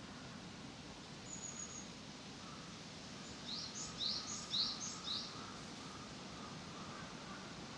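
A small bird calling in a park, first a thin high whistle, then a quick run of four sharp, high chirps a few seconds in. All of it sits over a steady, low background noise.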